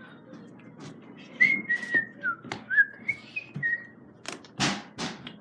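A person whistling a string of about eight short notes, some sliding up or down in pitch, followed near the end by two short bursts of noise.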